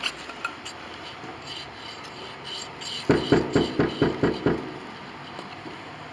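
Knocking on a door: a run of about eight quick knocks over a second and a half, starting about halfway through.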